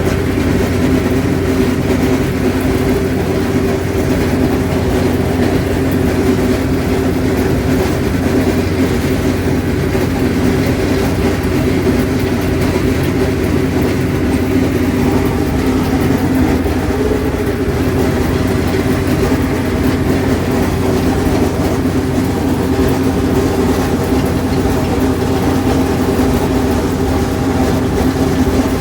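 Allis-Chalmers 7000 diesel tractor running steadily under load while mowing hay, with the hay mower hammering and clanging loudly throughout.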